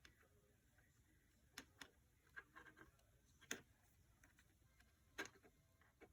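A few short, sharp clicks and taps over near silence, the loudest about three and a half and five seconds in. No beeping tone is heard.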